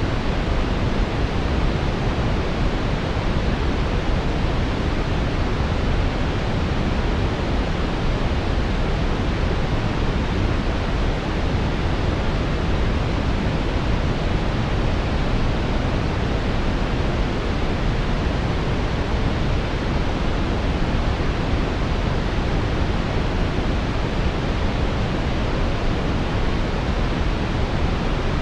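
Brown noise: a steady, even rushing hiss, deepest and strongest in the low end, with no changes or events.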